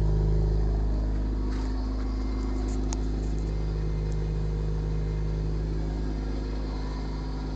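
Honda GSR 1.8-litre DOHC VTEC four-cylinder engine idling steadily while still warming up after a dead cold start in deep-freeze cold, its note easing slightly after about a second. Described as sounding "deadly".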